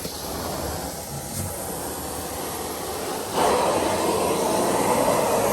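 Carpet-cleaning extraction machine running with a steady rushing suction noise, growing louder about three and a half seconds in.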